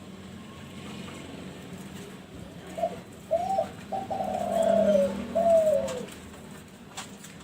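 Derkuku Kelantan spotted dove cooing one phrase of a few short notes, then a long falling note and a shorter falling one to close. A low steady hum runs underneath.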